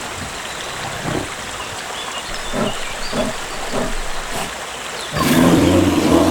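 A large wild animal's deep, drawn-out bellow returning about five seconds in, with several short grunts between bellows.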